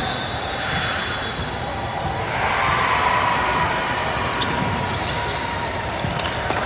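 Basketball game sounds in a gym: a ball bouncing on the court, with short sharp squeaks and knocks over a steady background hubbub.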